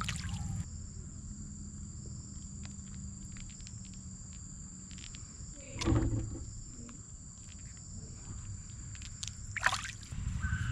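Insects droning steadily in two high, even tones, with two short, louder sounds about six and nine and a half seconds in.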